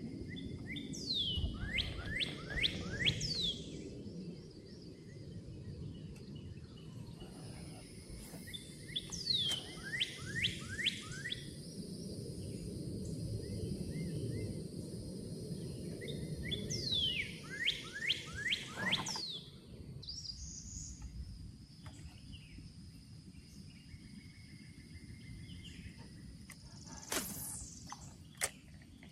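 A songbird singing three phrases, each a quick run of five or six downward-sliding whistled notes. Under it are a steady high-pitched whine and low background noise that drops away about two-thirds through, with a few sharp clicks near the end.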